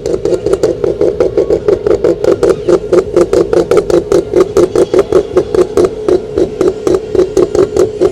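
A car engine running at idle, loud, with a lumpy pulsing beat of about six pulses a second over a steady drone.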